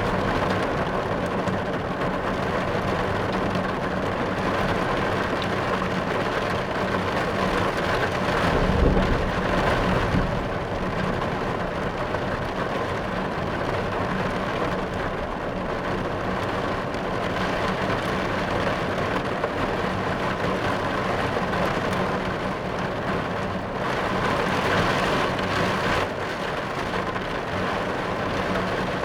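Steady rain drumming on a car's roof and windscreen, heard from inside the car, with a low rumble of thunder swelling about nine seconds in. A faint steady low hum runs underneath.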